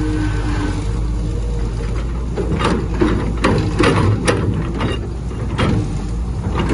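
Heavy diesel construction machine engine running steadily, with a run of sharp metallic clanks and knocks from about two and a half seconds in to near the end.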